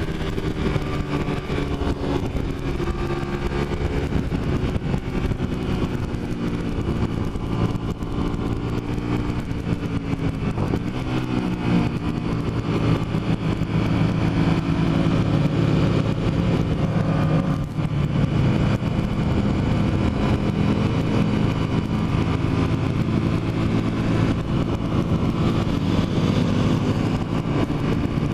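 Motorcycle engine running steadily under way, its pitch shifting up and down with the throttle, over a constant rush of noise.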